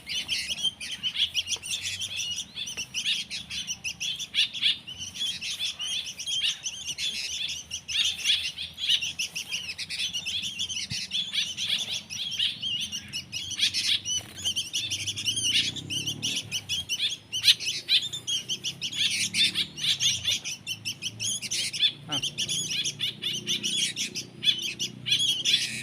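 Young hand-reared birds giving high, rapid chirps without pause: the begging calls of hungry nestlings waiting to be fed.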